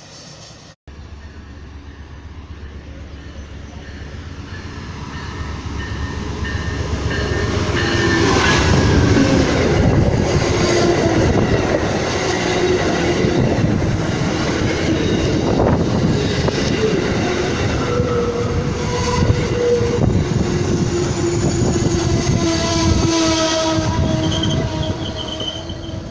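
A train passing on the tracks. The rumble builds over several seconds and then stays loud, with long drawn-out tones over it from the train.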